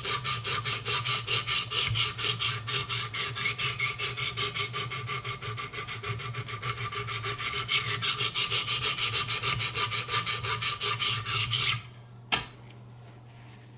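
Wicked Edge guided sharpener's abrasive rods stroking rapidly along a knife edge, about five strokes a second, raising a burr on the blade. The strokes stop abruptly near the end, followed by one sharp click.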